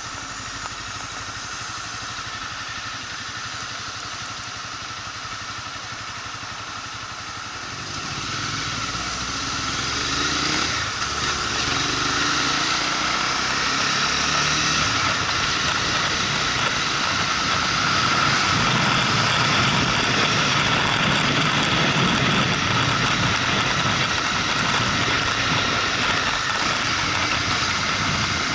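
Motorcycle running on the road, engine and riding noise together; it picks up speed and grows louder from about eight seconds in, then holds steady.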